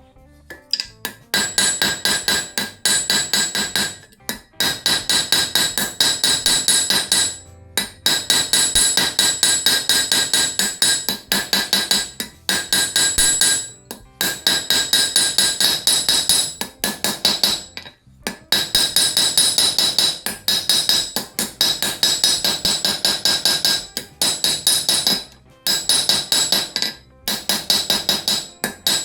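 Hammer forging hot steel bar stock on an anvil, drawing it down: quick runs of ringing blows, broken by a handful of short pauses.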